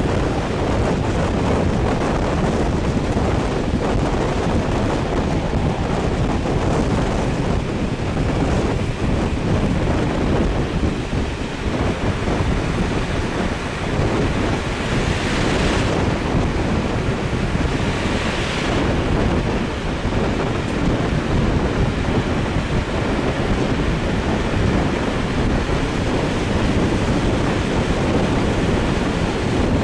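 Wind buffeting the microphone over the steady rumble of a moving train, with two brief swells of hiss about halfway through.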